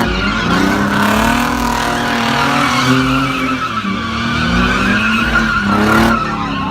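A car's tyres squealing steadily under wheelspin while its engine revs rise and fall.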